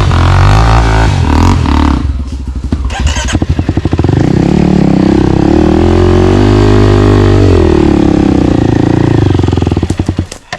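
Single-cylinder trail motorcycle engine revving hard under load on a steep dirt climb, its pitch rising and falling with the throttle; the sound drops away sharply near the end.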